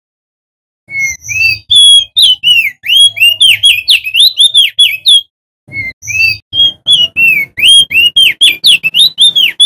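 Male crested white-eye (opior jambul) singing a fast, loud string of bending whistled notes, about five a second, with a brief break halfway through. The song starts abruptly about a second in, out of dead silence.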